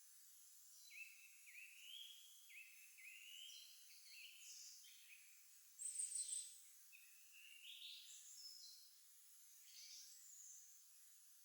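Songbirds singing faintly: a run of short whistled phrases one after another, with a brief, very high thin trill about six seconds in that is the loudest moment.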